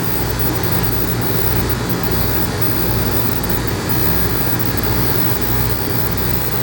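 Electric dog grooming clippers running with a steady buzz, trimming a dog's face. Underneath is a deep bass beat from background music, repeating about every three-quarters of a second.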